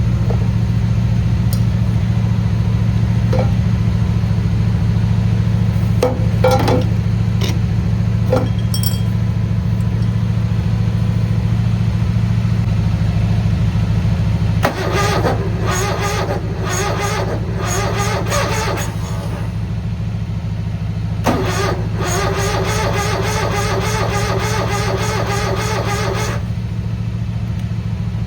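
Cub Cadet 782's Onan twin-cylinder engine being cranked over in two attempts of about five seconds each, turning but not firing, over a steady low hum. The engine is starved of fuel: its fuel pump has lost its prime in the cold.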